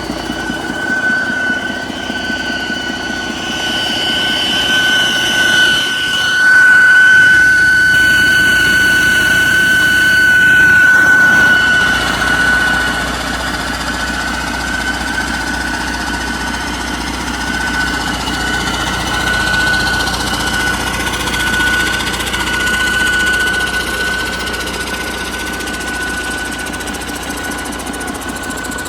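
2011 Detroit Diesel DD13 12.8 L inline-six diesel engine running, with a steady high whine over the engine note. It gets louder for several seconds about six seconds in, then settles back.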